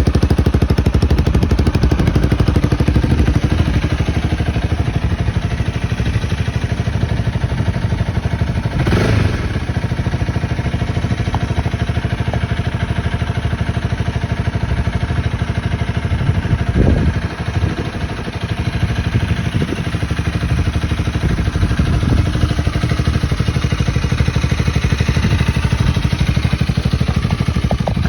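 Honda Rebel 250's single-cylinder engine running through an aftermarket Diablo exhaust muffler, steady and loud, with a couple of brief shifts in engine note about nine and seventeen seconds in.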